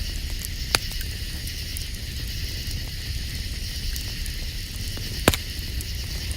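Campfire crackling, with two sharp pops: one under a second in and a louder one near the end. A steady, high-pitched chorus of night insects goes on behind it.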